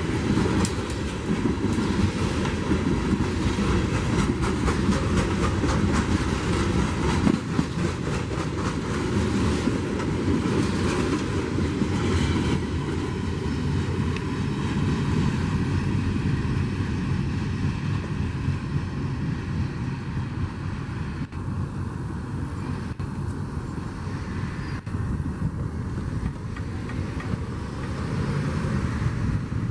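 A train rolling past on the rails, its wheels clicking over the rail joints. The clicking is dense for the first dozen seconds, then thins out as the sound eases off slightly.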